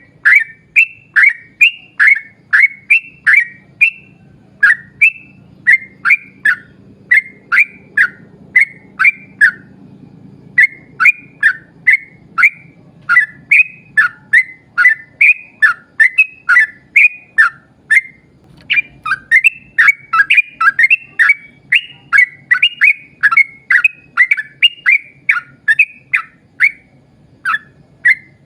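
Yellow-vented bulbul (trucukan) singing a long, fast run of short whistled notes, about two or three a second, with a couple of brief breaks.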